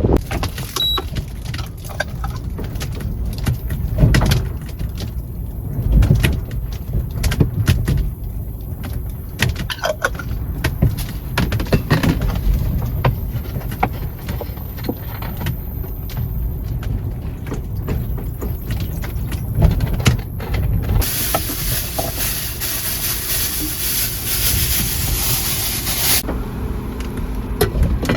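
Gale-force wind buffeting the microphone in a low rumble that swells in gusts, with scattered small rattling clicks. A hiss starts about three quarters of the way through and stops a few seconds later.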